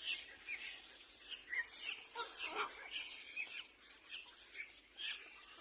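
Little black cormorant chicks calling at the nest: a busy run of short, high, squeaky chirps and squeals, many overlapping.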